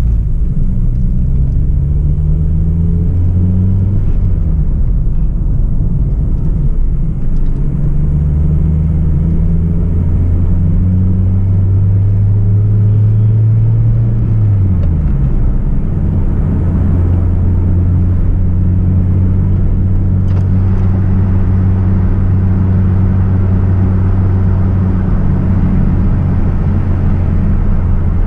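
Hyundai Tiburon's 2.0-litre petrol four-cylinder engine under way, its note rising and falling through gear changes in the first few seconds. It holds a steady pitch, drops sharply about halfway through as with an upshift, then settles into a steady cruise.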